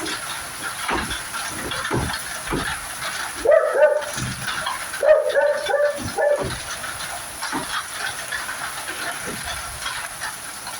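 Steady hiss of falling rain mixed with snow, with scattered low thumps. Two brief bursts of short high-pitched calls come about a third and halfway through.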